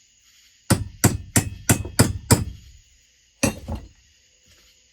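Hammer tapping a tool down onto a chainsaw fastener to seat it: six quick sharp taps, about three a second, then one more a second later.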